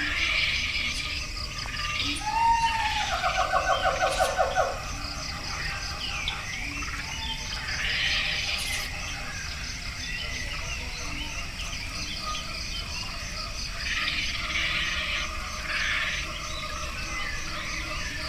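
Forest ambience: birds calling over a steady, evenly pulsing insect chorus. A loud, rapid pulsed call of about ten notes comes a couple of seconds in, with scattered chirps after it.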